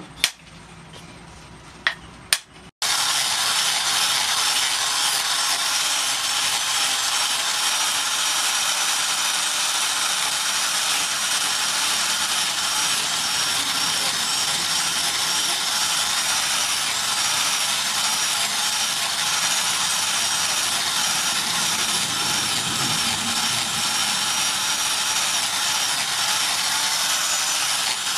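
A few sharp hammer taps on the knife, then an electric angle grinder with a sanding pad starts and runs steadily, sanding the knife's wooden handle.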